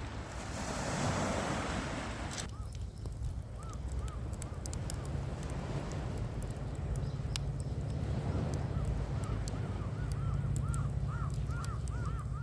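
A rushing noise that cuts off suddenly after about two seconds, then a series of short repeated bird calls, sparse at first and coming quickly one after another near the end, over scattered sharp crackles of a wood fire.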